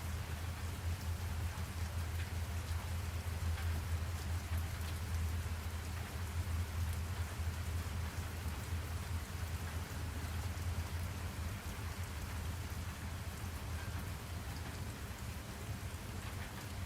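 Steady rain falling, a continuous patter with scattered drop ticks over a constant low rumble.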